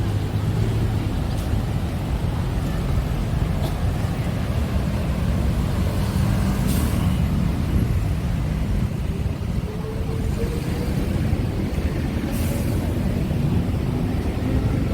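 Busy city road traffic: a steady rumble of car, bus and truck engines, with two short hisses about seven and twelve seconds in.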